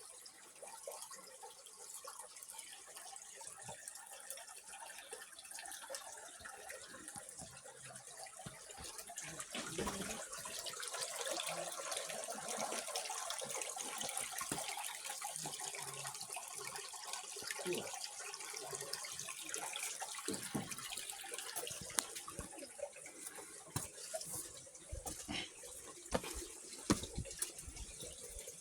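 Water of a small stream flowing and splashing steadily, growing louder for several seconds in the middle, with a few short knocks near the end.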